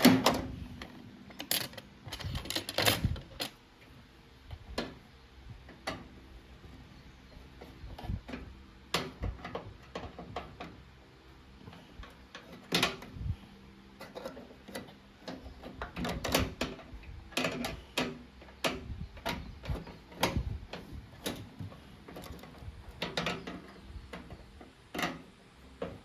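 Irregular clicks, knocks and rattles from handling the metal and plastic parts of a microwave oven during repair, the loudest knocks at the start and about three seconds in.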